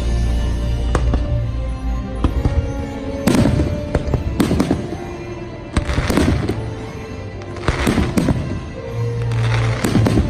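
Fireworks bursting in a series of sharp bangs about every one to two seconds, several coming in quick clusters, over the show's music.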